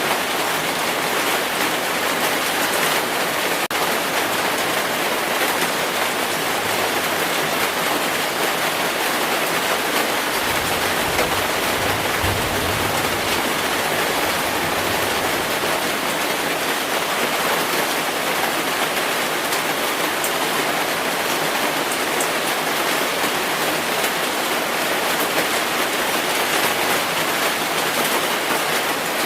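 Heavy rain falling in a steady, dense downpour, with a faint low rumble swelling briefly near the middle.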